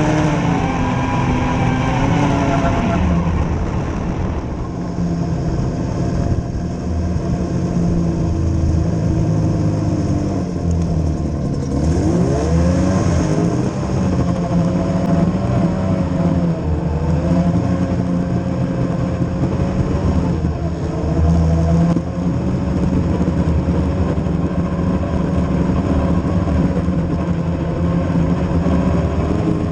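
Engine of the Odyssey running under way, its revs rising and falling; about twelve seconds in it revs up sharply, then settles back into a wavering steady run.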